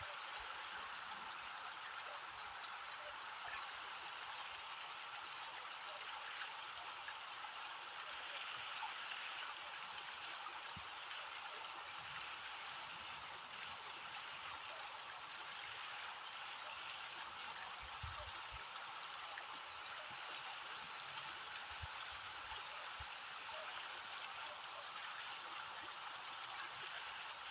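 Steady hiss of water, falling or running, with a few faint ticks scattered through it.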